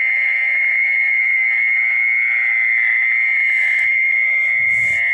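A steady, shrill chorus of night insects calling without a break, with a brief low rumble of handling noise near the end.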